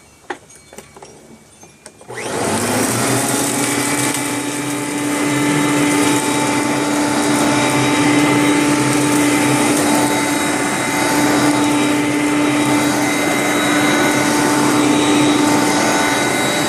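A few small clicks, then a Hoover Conquest upright vacuum cleaner switches on about two seconds in: its motor spins up with a quick rising whine and settles into a steady, loud running hum with a high whine and rushing air.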